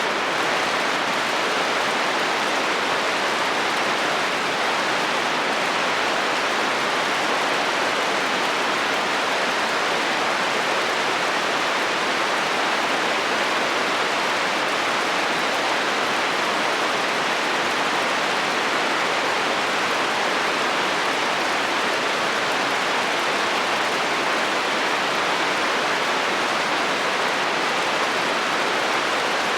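Heavy rain falling steadily on a metal roof, an even hiss with no thunder.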